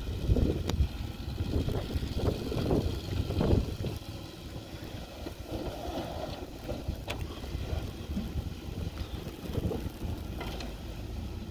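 Gusty wind buffeting the microphone in a rumbling rush, with several strong gusts in the first few seconds that ease to a steadier blow.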